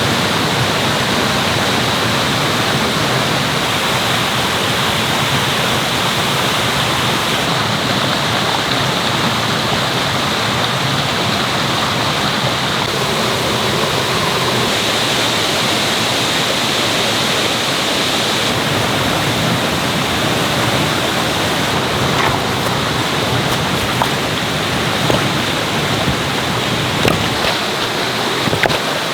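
Mountain stream rushing over rocks: a steady, loud wash of water, with a few light knocks near the end.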